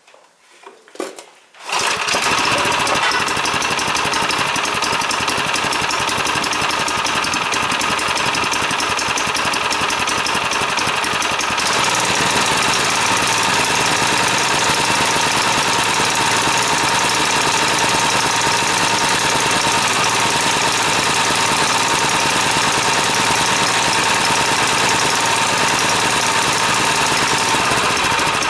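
Brush cutter's small four-stroke engine starting, catching about two seconds in after a few short pulls, then running steadily. About ten seconds later it runs a little louder and higher.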